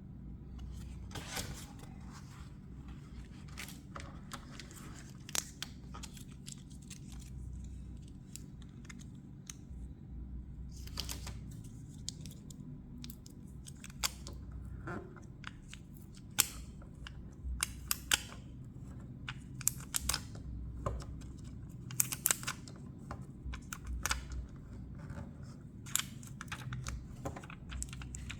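Small buttons clicking and tapping irregularly as they are handled and pressed onto a paper picture, over a low steady hum.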